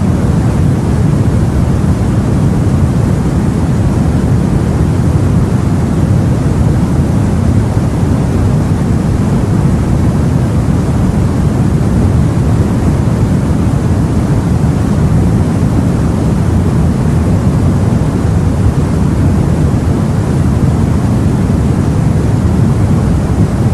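Sea water washing around a boat: a steady, deep noise with no separate wave breaks or other events.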